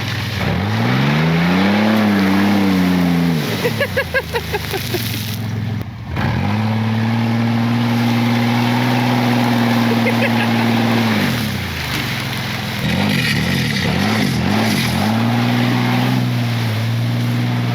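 Truck engine revving repeatedly: a rev up and back down, a held rev for about five seconds, then a few quick blips and another held rev.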